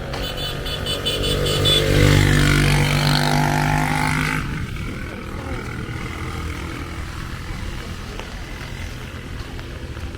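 A motor vehicle's engine passing close by, loud for about four seconds, then suddenly giving way to steady street background noise.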